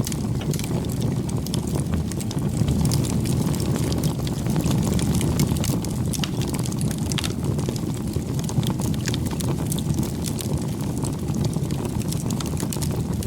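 Wood campfire burning: a steady low rumble of the fire with frequent sharp crackles and pops from the burning wood.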